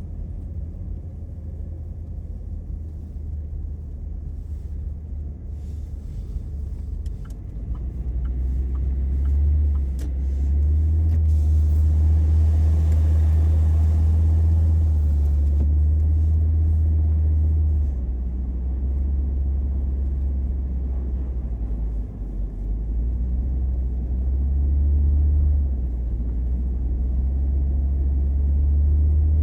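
Car driving on a snowy road, heard from inside the cabin: a steady low rumble of engine and tyres that gets louder about eight seconds in.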